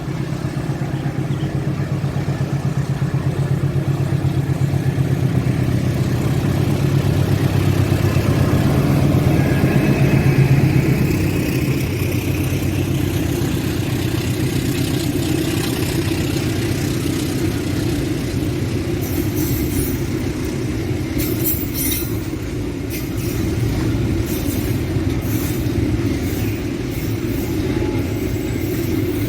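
Train passing: a diesel locomotive's engine rumble builds to its loudest about ten seconds in and eases off, followed by a run of irregular clicks from the wheels over rail joints as the cars go by.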